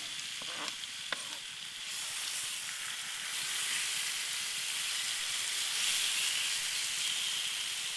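Raw chicken breast strips sizzling in coconut oil on a hot flat-top griddle, a steady hiss that swells a little after about two seconds. A few light clicks of the spatula and knife on the steel in the first second or so.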